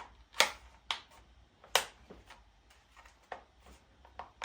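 Sharp plastic clicks and knocks from handling the trigger gun and hose fittings of a Kärcher K5 pressure washer: about five separate clicks, the loudest about half a second in and just under two seconds in.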